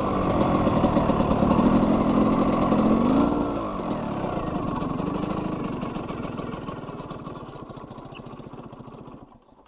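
KTM 125 EXC two-stroke single-cylinder engine running, its pitch rising and falling once about a third of the way in. It then dies away gradually and cuts out near the end.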